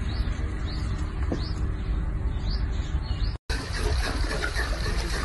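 Small bird chirping, short high rising chirps about twice a second over a steady low rumble. After an abrupt cut a little over three seconds in, a steady watery hiss of pool water.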